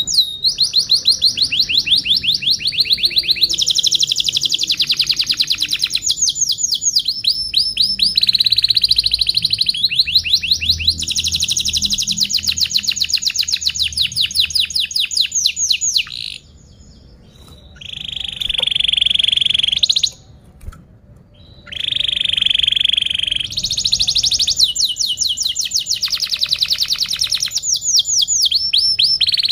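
Domestic canary singing a long, loud song of rapid trills, each a fast run of repeated sweeping notes, changing from one trill to the next, with two short breaks past the middle.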